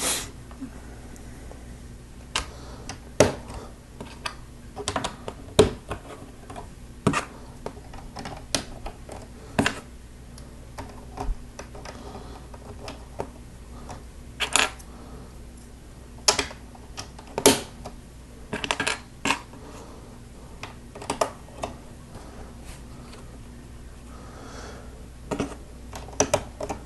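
Plastic LEGO bricks and plates clicking and snapping together, with loose pieces tapping on the table, in irregular short clicks over a steady low hum.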